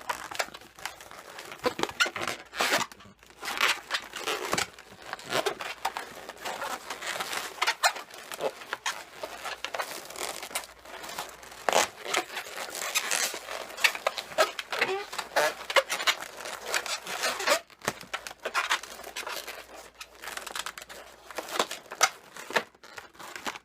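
Latex twisting balloon being folded back and twisted by hand: irregular rubbery rubbing, crinkling and short squeaks.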